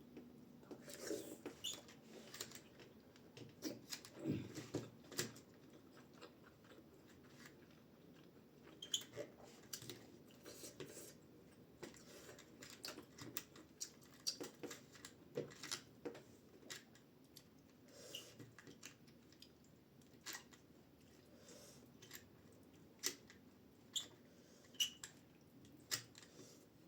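Close-up chewing and mouth sounds of a person eating dumplings (momo): irregular soft wet clicks and smacks, a few every second.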